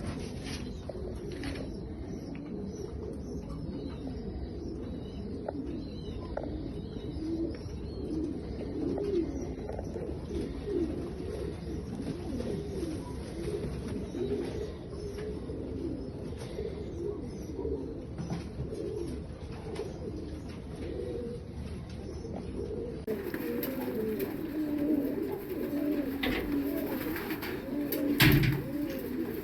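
Several fancy domestic pigeons cooing over one another, low rolling coos overlapping without pause. A short knock sounds near the end.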